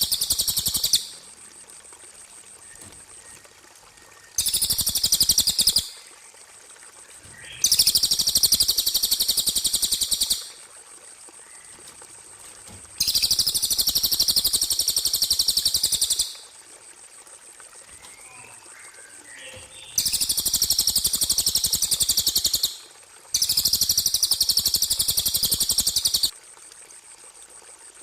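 A small songbird's very high-pitched, fast trill from a bird-song tutor recording, coming in six bursts of one to three seconds with short pauses between them. A faint steady high tone runs underneath throughout.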